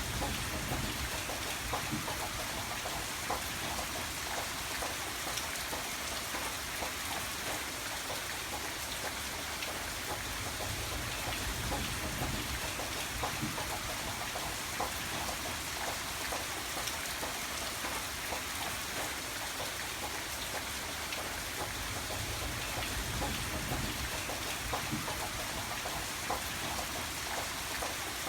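Steady rain, with many individual drops ticking on a surface and a low rumble that swells and fades every few seconds.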